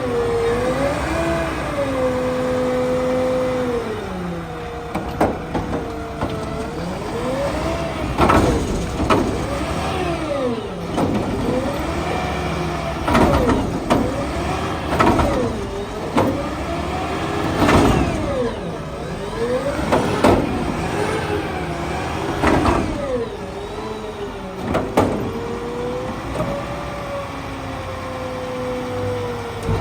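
Mack LR garbage truck's diesel engine revving up and down again and again to drive the hydraulics of its McNeilus Meridian front loader and Curotto Can arm, with a whine that rises and falls with the revs. Loud clangs and bangs of a cart being handled and dumped come through the middle of the stretch.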